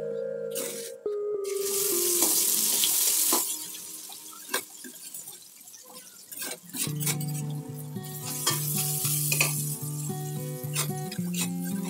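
Ground spice paste for marinating chicken hits hot oil in a steel wok, sizzling loudly for about two seconds. It then fries while a metal spatula taps and scrapes the wok, with a second burst of sizzling near the end, over background music.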